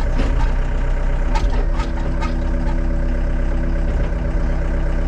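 Excavator's diesel engine idling steadily while it warms up just after a glow-plug start, with a few light knocks about a second or two in.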